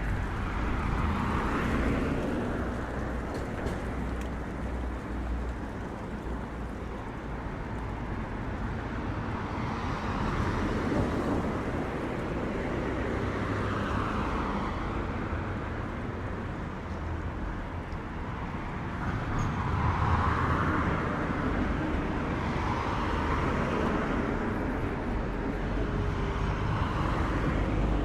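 City street traffic: cars driving past one after another, each one swelling and fading over a steady low rumble.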